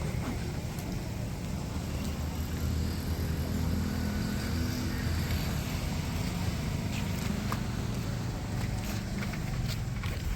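A motor running steadily with a low, even hum, with a few light clicks and knocks in the last few seconds.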